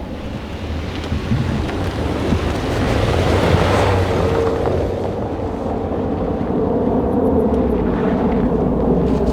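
Rally car on a snow stage: engine running under a rushing noise of tyres and snow that swells to a peak about four seconds in, after which steady engine tones carry on.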